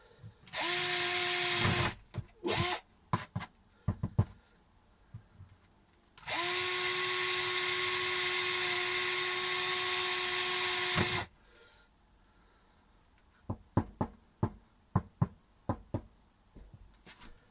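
Electric drill boring holes into a camper's delaminated plywood floor, the access holes for injecting adhesive into the spongy layer: a run of about a second near the start, a few quick blips, then a steady run of about five seconds. Scattered sharp clicks and knocks follow in the last few seconds.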